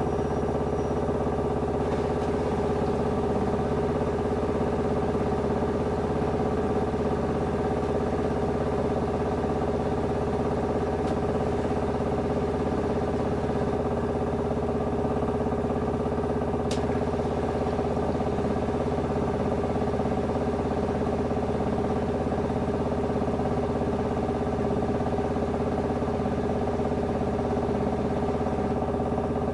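LG F10A8HDS5 front-loading washing machine running mid-cycle with a steady mechanical hum that holds an even pitch throughout, with a faint click or two.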